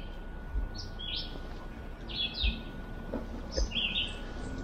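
A wild songbird calling in woodland: short high chirped phrases repeated about every second, over quiet background hiss.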